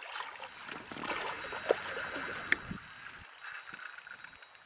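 Water sloshing and gurgling around a small fishing boat while a hooked muskie is fought, with two brief sharp clicks near the middle.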